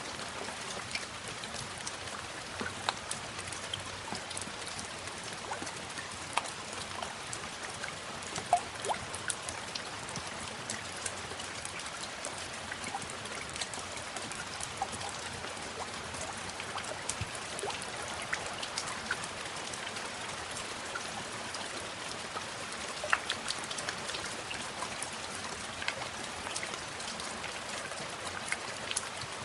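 Steady rain falling, an even hiss with many individual drops ticking sharply at random throughout.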